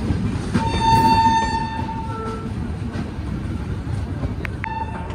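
Indian express train running at speed, its rumble heard through an open coach door while another train runs on the next track. A train horn sounds for over a second about half a second in, and a second short horn toot comes near the end.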